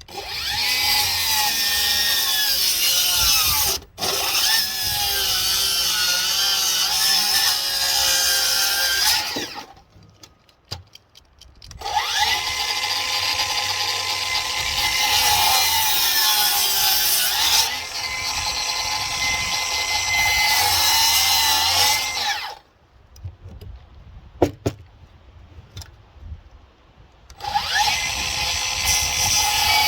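Electric power saw cutting a 2-inch wood offcut in three runs. Each run starts with a rising whine, and the motor's pitch wavers as it works through the wood. The first two cuts run about ten seconds each with a short pause between them; the third starts near the end.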